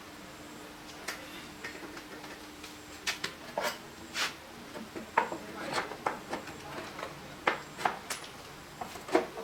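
Irregular light metallic clinks and knocks, a dozen or so at uneven intervals, typical of hand tools and small metal parts being handled.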